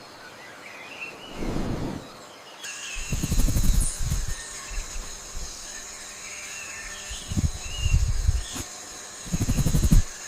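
Bird calls of a rainforest ambience: short chirps and squeals over a steady high ringing, broken four times by loud low rushing bursts.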